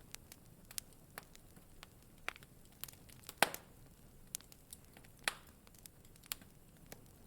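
Wood fire crackling in a fireplace: irregular sharp pops and snaps over a faint steady hiss, the loudest pop about three and a half seconds in and another strong one a couple of seconds later.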